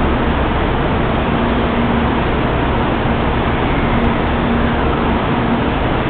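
Steady, loud running noise of a 300 series Shinkansen train at the platform, with a low hum that comes and goes every couple of seconds.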